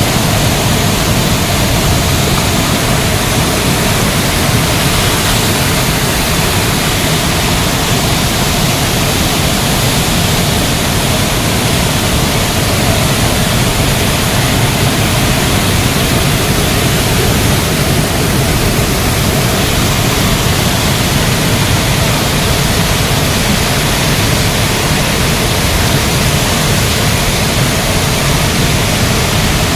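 Budha Ghagh waterfall: a loud, steady rush of falling water.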